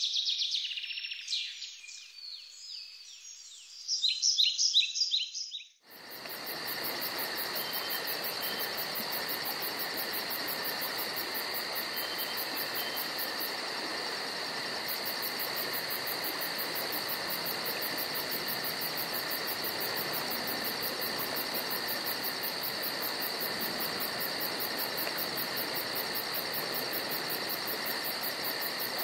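Birds chirping for the first six seconds or so. After an abrupt cut, a steady insect chorus with a rapid, even pulsing trill runs on unchanged.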